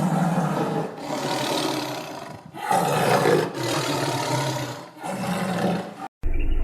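A large wild animal roaring: a run of about five long, rough calls back to back. Near the end it cuts off abruptly and a different low, steady rumbling sound begins.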